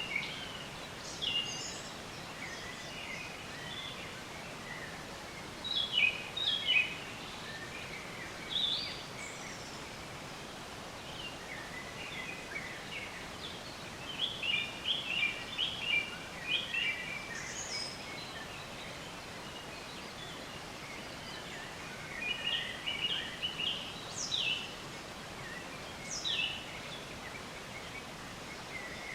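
Several songbirds chirping and trilling in short bursts over a steady outdoor hiss. The calls come in clusters with quieter gaps between them, including quick rising-and-falling twitters and a few sharp downward-sweeping notes near the end.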